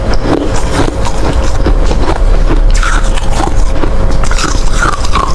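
A person biting and crunching hard ice with their teeth close to the microphone, in a dense, irregular run of cracks and crunches.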